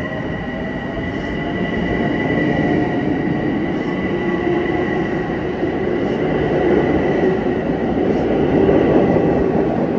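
Long Island Rail Road M7 electric multiple-unit train pulling out past the platform. It rumbles over the rails with a steady high whine, and a lower motor whine rises in pitch as it gathers speed.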